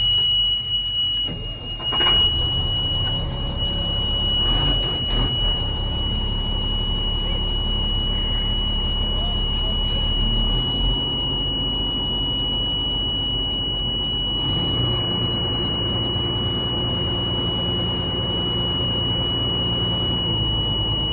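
Military truck's diesel engine turning over and catching about two seconds in, then running, under a steady high-pitched warning buzzer that comes on at the start and holds throughout.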